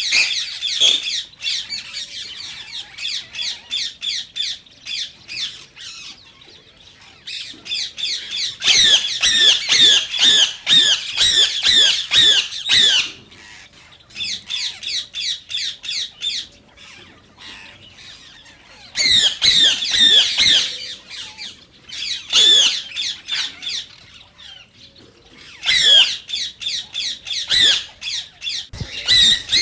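Indian ringneck parakeet calling: rapid runs of shrill, repeated squawks, several a second, in bouts of a few seconds with brief pauses between them.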